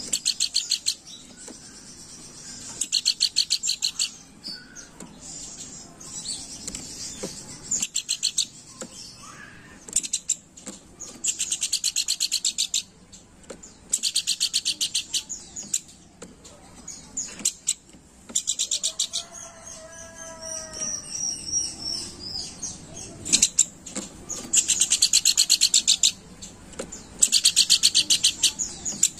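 Pelanduk bukit, a babbler, giving rapid, dry chattering trills in high bursts about a second long, repeated every couple of seconds. About twenty seconds in, a lower, more tuneful call breaks in briefly.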